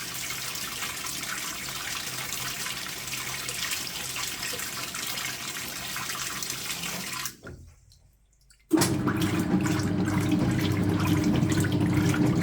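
Speed Queen top-loading washer filling, water hissing into the tub. The fill stops about seven seconds in, and after about a second of silence the machine starts agitating with a steady motor hum and churning water.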